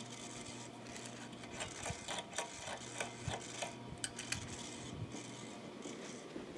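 Sanyo-built Lasko/Sears Turn of the Century ceiling fan running on medium-high, a steady low motor hum with a scatter of light irregular ticks through the middle.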